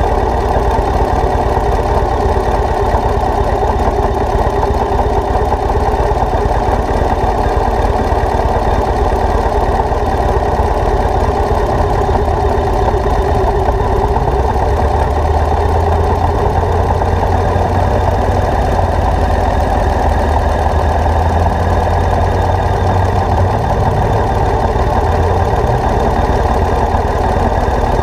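Motorcycle engine running steadily, a constant drone without revving.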